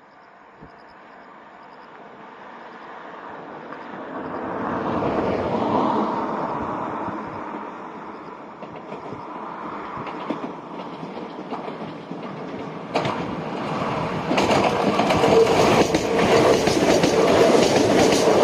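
Yoro Railway 7700-series electric train (ex-Tokyu 7700) approaching and running into the station, growing louder. In the second half its wheels clatter over rail joints and points in a run of sharp clicks.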